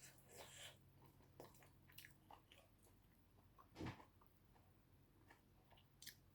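Faint chewing and mouth sounds of a person eating, a scatter of small wet clicks with a louder click about four seconds in.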